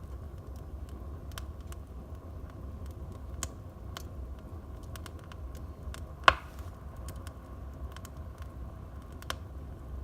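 Wood fire burning in a fireplace: scattered crackles and sharp pops over a steady low rumble of the flames, with one loud pop about six seconds in.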